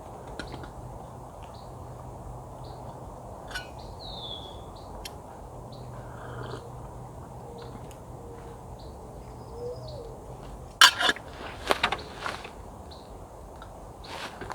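Small birds chirping and calling now and then over a quiet outdoor background, with a few sharp knocks about eleven seconds in.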